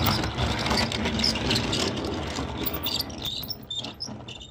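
Car engine noise, running steadily and then fading away toward the end.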